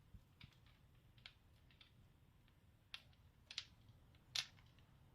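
Faint, scattered clicks and crinkles of lollipop wrappers being handled, about seven sharp ticks spread over a few seconds, with near quiet in between.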